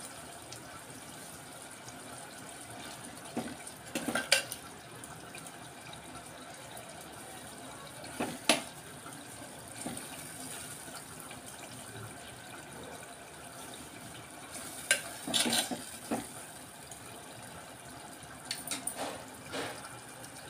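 Prawns frying in a pot with a steady low sizzle as their water cooks off, while a steel ladle clinks and scrapes against the pot a few times as they are stirred.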